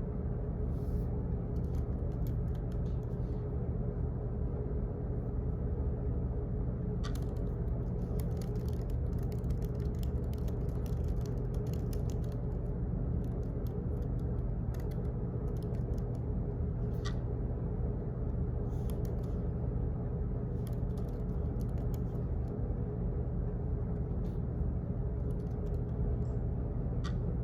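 Office room ambience: a steady low hum and rumble with scattered faint clicks, three sharper clicks standing out about ten seconds apart.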